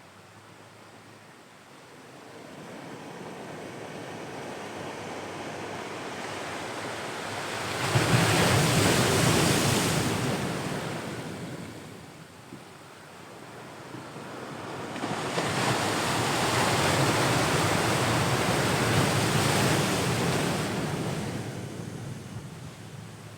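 Ocean waves breaking and washing on the shore: one crashes in suddenly about a third of the way through and fades, then a second, longer wave rolls in and washes out near the end.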